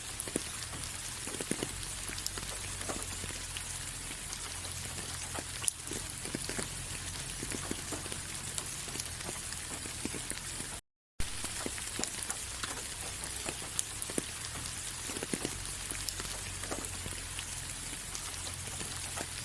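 Steady rain falling, an even hiss with many single drops pattering on a surface. It cuts out completely for a split second a little past halfway, then resumes.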